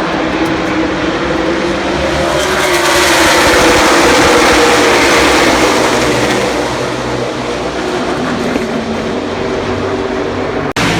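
A pack of NASCAR stock cars with V8 engines racing past at speed, the combined engine noise swelling to its loudest about four to five seconds in and dropping in pitch as they go by, then easing off. The sound cuts out twice, briefly, near the end.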